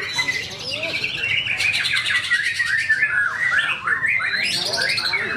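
White-rumped shama (murai batu) singing a fast, varied song: quick slurred whistles sweeping up and down, a buzzy rattle in the middle and a long, slightly falling note, with mimicked filler phrases (isian) worked in.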